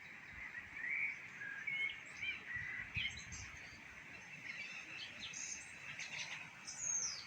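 Small songbirds singing: a run of short chirps and whistled notes, with a high falling phrase near the end.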